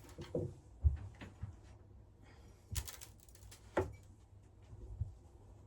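Scattered clicks and light knocks of small parts being handled and set down, about seven in all, the sharpest about a second in.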